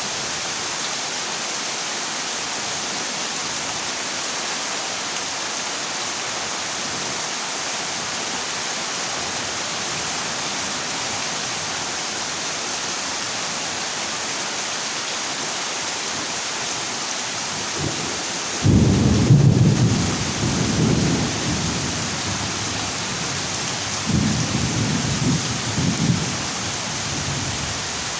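Heavy rain drumming steadily on a corrugated zinc roof. About two-thirds of the way in a thunderclap breaks in suddenly and rumbles for a few seconds, followed near the end by a second, softer roll of thunder.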